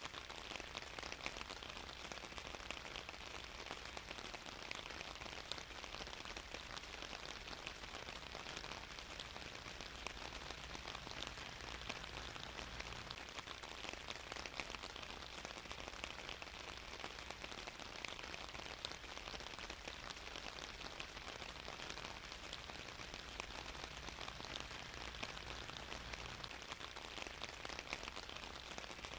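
Steady rain falling on a surface, a continuous dense patter of many small drops.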